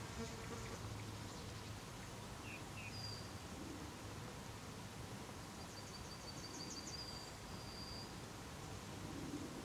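Faint outdoor ambience with a steady low background hum, and scattered faint high-pitched calls of small songbirds: a couple of short chirps, then a quick series of high notes and a thin whistle about six to eight seconds in.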